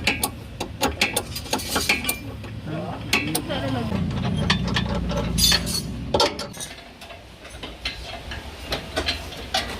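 Metal tools and parts clinking and tapping in a quick irregular series of sharp clicks, with a low hum rising in the middle.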